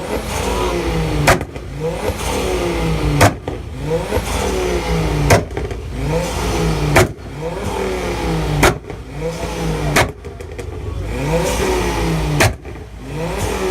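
Car engine revved hard over and over in a rev contest, the pitch climbing and dropping with each blip. A sharp bang comes about every two seconds.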